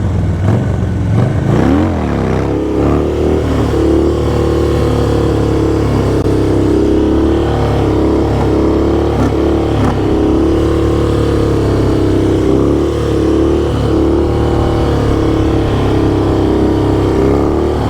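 Motorcycle engine running on the road, its pitch rising as it accelerates about two seconds in, then holding a fairly steady cruise with small dips in engine speed.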